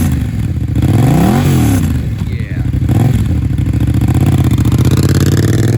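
2016 Yamaha FZ-07's parallel-twin engine through an aftermarket M4 exhaust: revved once about a second in and let fall, blipped lightly near three seconds, then running steadily.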